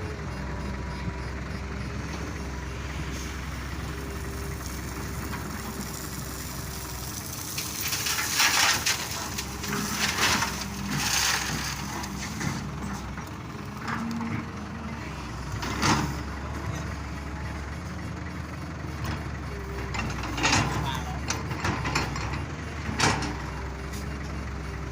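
Heavy diesel excavator engine running steadily while rocks clatter and bang down into a dump truck's bed: a burst of loud clattering about a third of the way in, then single bangs later on.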